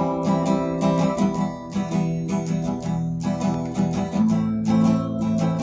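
Acoustic guitar music, plucked and strummed chords ringing on steadily.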